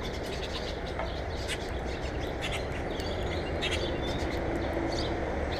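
Small birds chirping at a bird feeder: many short, high chirps scattered throughout, over a steady low background rumble.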